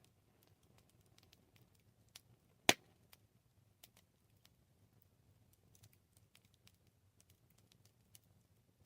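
Wood campfire crackling: sparse irregular small snaps over a faint low rumble, with one loud pop from the burning wood a little under three seconds in.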